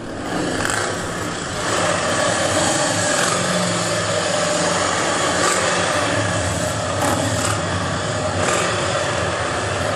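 Steady din of engines running without a break, with a low hum and a higher steady drone over it.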